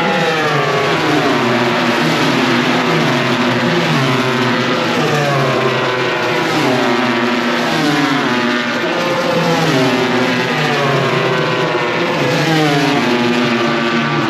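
A pack of MotoGP racing motorcycles passing at racing speed, several engines at once. Their pitch climbs and drops again and again as the riders accelerate and shift gears.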